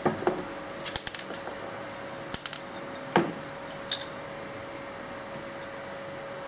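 Sharp clicks and clinks of small hard parts and tools being handled, about seven in the first four seconds, with a steady faint hum underneath.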